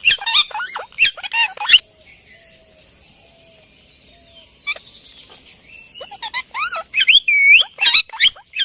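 Birds calling in quick clusters of chirps and squawks for about the first two seconds and again from about six seconds in, with a lull between broken by a few faint thin whistles; a steady high hiss runs underneath.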